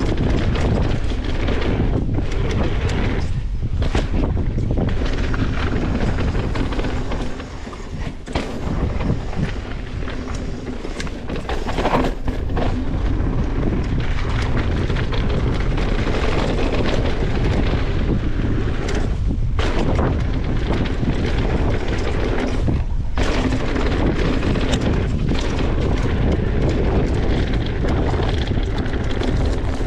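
Wind buffeting the microphone and mountain bike tyres running over a dirt trail, with knocks and rattles from the bike over bumps; it eases for a few seconds about seven seconds in.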